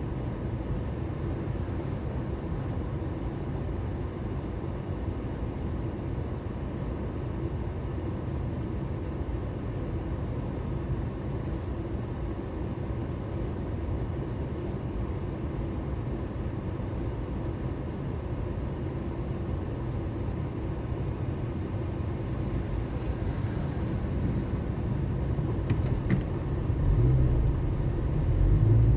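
Car driving through city traffic: a steady low engine and road rumble that grows louder over the last few seconds, with a brief click near the end.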